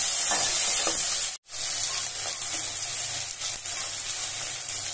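Chopped tomatoes, onion and garlic sizzling in hot oil in an aluminium kadhai while a flat metal spatula stirs them. The sizzling cuts out for an instant about a second and a half in, then carries on a little quieter.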